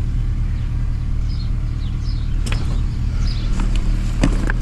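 A steady low mechanical hum, with a couple of sharp clicks from the door-latch cable clips and tabs being worked by hand, and faint chirps of small birds.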